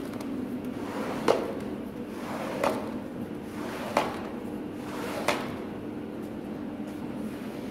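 A steady motor hum from workshop cleaning equipment, with four sharp knocks evenly spaced about a second and a bit apart in the first two-thirds.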